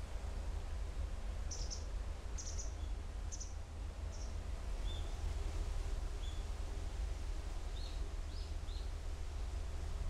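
Small birds chirping: a few short, high chirps in the first half, then a handful of lower, quick calls in the second half, over a steady low rumble.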